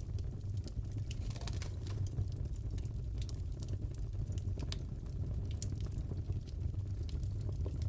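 Wood fire crackling in a fireplace: a steady low rumble with irregular sharp pops and crackles.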